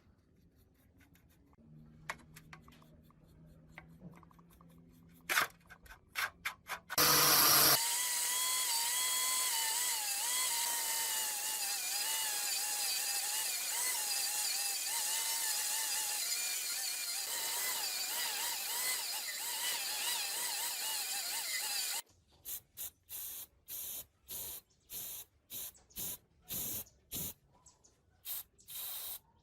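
A small handheld power tool runs for about fourteen seconds with a wavering whine over a loud hiss, as it would when working metal under varying load, then stops suddenly. Short hissing bursts follow, repeated about twice a second.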